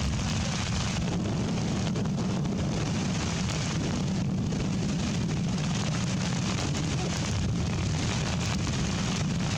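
Heavy rain falling steadily, a dense even hiss of drops with a strong low rumble beneath it.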